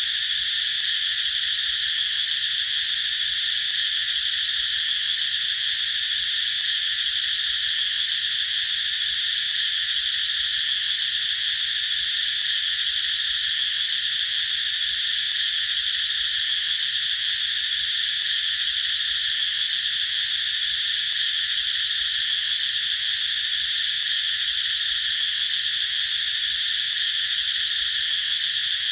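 A chorus of cicadas singing in a steady, high-pitched drone that does not break.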